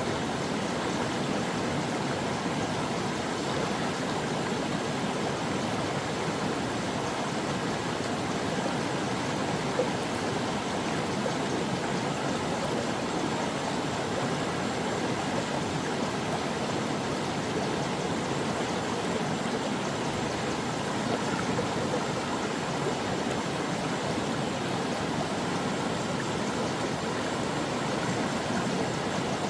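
Stream water running steadily, an even, unbroken rush, with one brief sharper splash or click about ten seconds in.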